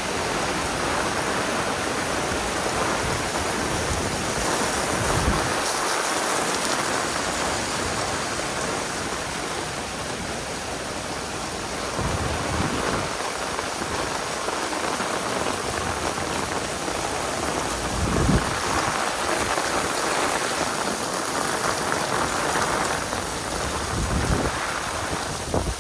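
Heavy rain pouring down steadily, a dense even hiss, with a few brief low bumps scattered through it.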